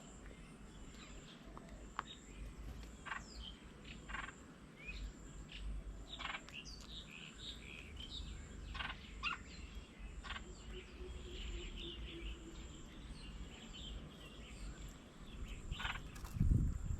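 Wild birds chirping and calling in short, scattered notes over a faint outdoor background. A loud low rumble comes in near the end.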